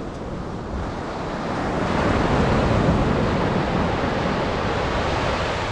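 Atlantic surf: a wave breaking on the beach, the wash swelling louder about two seconds in and then running on steadily.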